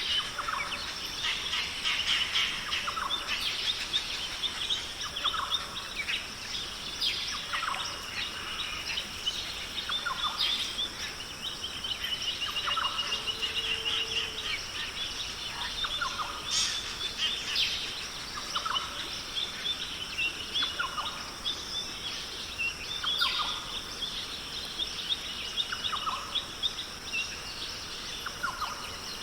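Rainforest birds calling, one bird repeating a short call every second or two and another giving a long trill about halfway through, over a steady high-pitched background drone.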